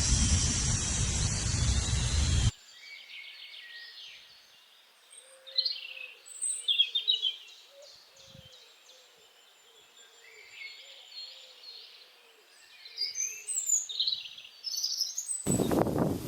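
Birds chirping and trilling in short, high, scattered calls. A loud rushing noise, like wind or rustling, cuts off abruptly a couple of seconds in and returns just as abruptly near the end.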